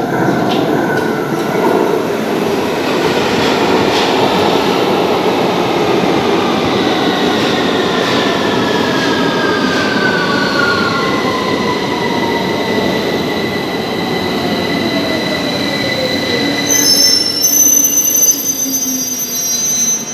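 London Underground Victoria Line train running into the platform and braking: its motor whine falls steadily in pitch as it slows over the rumble of the wheels, and high-pitched brake and wheel squeal sets in near the end as it comes to a stop.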